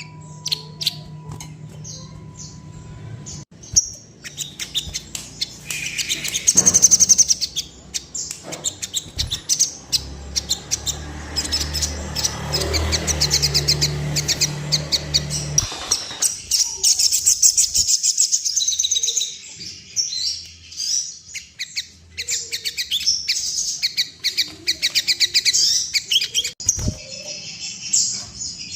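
Sogon bird singing hard in fast, high, chattering trills: a 'gacor' call used as bait to bring caged sogon into courtship display. A low hum sits under the song for a few seconds in the middle.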